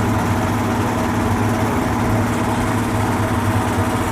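A vehicle engine idling steadily, an even low drone with a constant hum.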